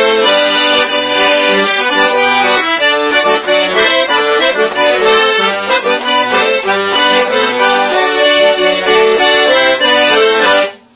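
Accordion playing a lively traditional-style tune with rapidly changing notes and chords, cutting off abruptly just before the end.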